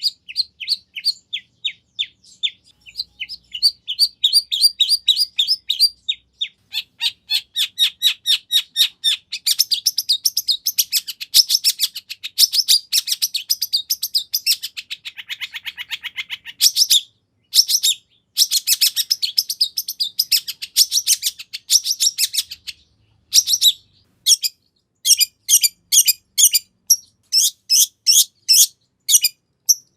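Long-tailed shrike singing a long, fast chattering song of rapid, high repeated chirps, several a second, broken by a few brief pauses.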